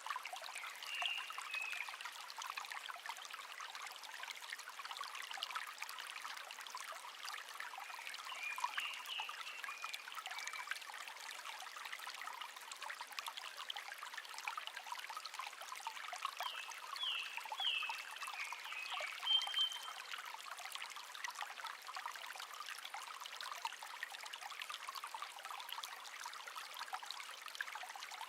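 Shallow stream babbling and trickling steadily. A wild songbird sings short phrases of quick chirps three times: near the start, about a third of the way in, and a little past halfway.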